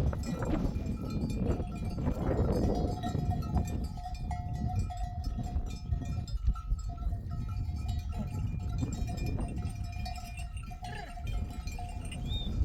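Bells on a grazing flock of sheep ringing steadily, with a few sheep bleating.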